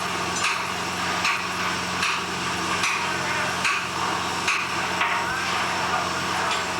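Hammer blows at an even pace, a little more than one a second, over a steady machinery hum.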